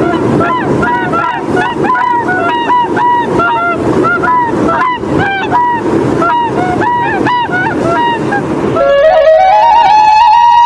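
A flock of migratory waterbirds calling, many short rising-and-falling calls overlapping, over a steady rush of water or wind. Near the end, music comes in: a stepped rising tone that settles into one held note.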